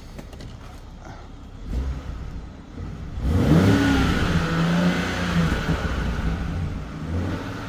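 2021 BMW 7 Series engine idling, blipped briefly about two seconds in, then revved up a little after three seconds and held high for a few seconds before dropping back to idle. The exhaust has a little throaty note.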